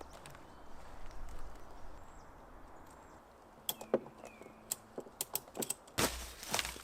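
Hands handling gear at close range: a low rustle, then a quick run of sharp clicks and knocks, ending in a short, louder rustle near the end.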